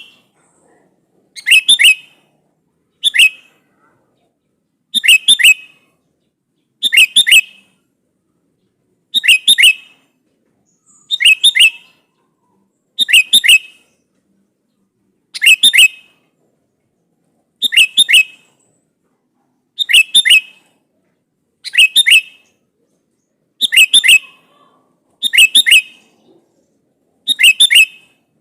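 Sooty-headed bulbul (kutilang) calling: a short burst of two or three quick, loud notes, repeated about every two seconds. It is the call a bulbul gives to challenge a rival.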